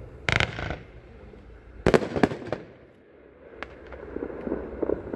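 The last shots of a 36-shot consumer firework cake: several sharp bangs at uneven spacing, the loudest about two seconds in with a couple more close behind, over a low rumble of the aerial breaks.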